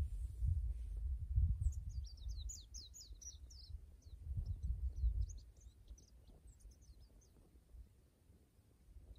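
A small bird singing a run of quick, high chirps for a few seconds, starting about two seconds in, over an uneven low rumble that comes and goes and is loudest early on and around the middle.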